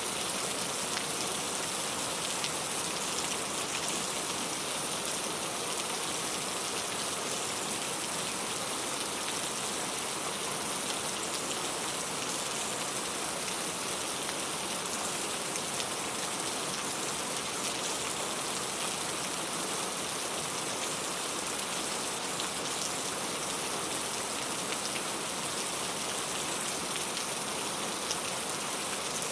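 Steady rain falling, a constant hiss with fine scattered drop ticks.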